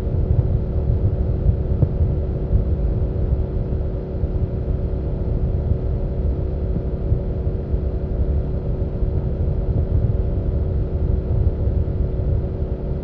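BMW F800GS parallel-twin engine and exhaust running at a steady cruise, the engine note holding one pitch throughout with no revving or gear changes.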